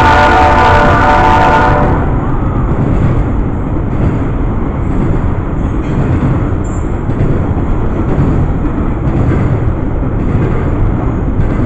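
Locomotive horn sounding a chord of several tones, cutting off about two seconds in, then the steady rumble of a Norfolk Southern intermodal freight train's cars rolling past on the rails.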